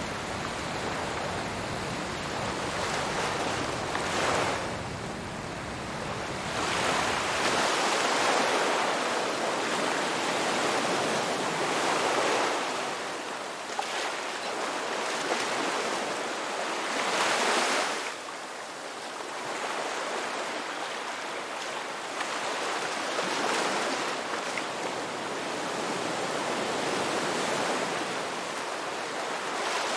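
Ocean waves surging and washing on a shore, swelling and easing every few seconds. A low rumble underneath drops away about eight seconds in.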